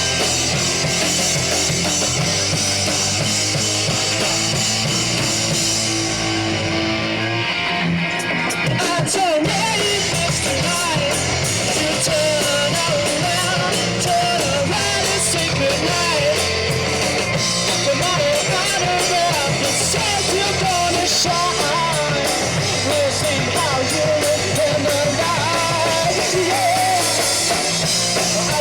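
Rock band playing live: drum kit, bass and electric guitars, with the cymbals thinning out for a couple of seconds about six seconds in before the full band comes back.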